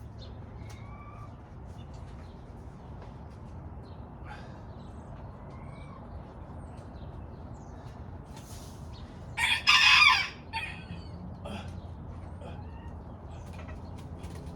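A rooster crows once, about two-thirds of the way through, over faint scattered bird chirps.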